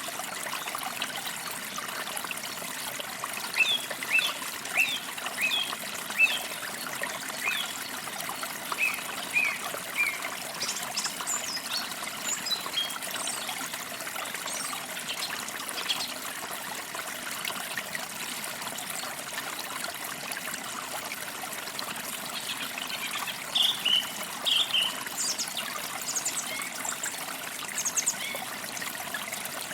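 A small forest stream trickling steadily, with songbirds chirping over it in runs of short, high notes.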